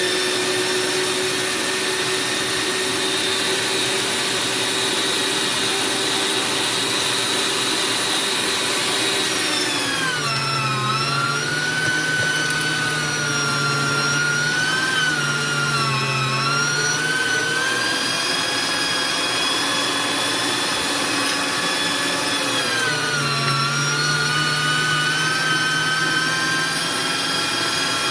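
Electric meat grinder motor running with a steady whine. About nine seconds in, its pitch drops and wavers as it bogs down under a load of beef. It picks up again, then drops a second time near the end: the grinder is struggling to push the meat through the medium plate.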